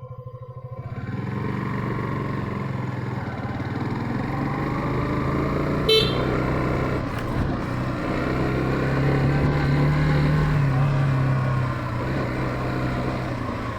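Yamaha FZ15's single-cylinder engine running under way on the road, its note steady with a slight rise and drop about ten seconds in. A brief horn beep sounds about six seconds in.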